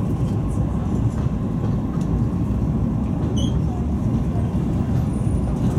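Steady running rumble of a locomotive-hauled passenger coach rolling along the track, heard from inside the carriage, with faint light clicks.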